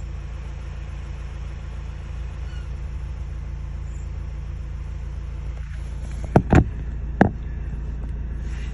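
Vehicle engine idling with a steady low hum. Three sharp knocks come in quick succession about two-thirds of the way through.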